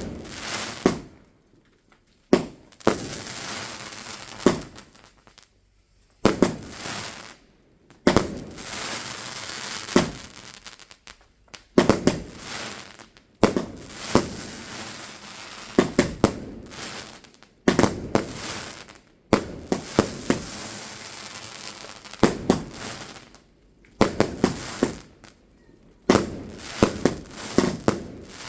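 Fireworks going off: repeated sharp bangs every second or two, with crackling between them.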